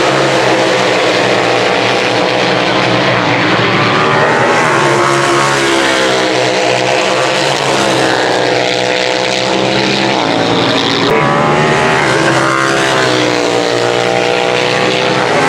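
Racing superbike engines at high revs. Their pitch repeatedly climbs and drops with throttle and gear changes, over a steady low drone.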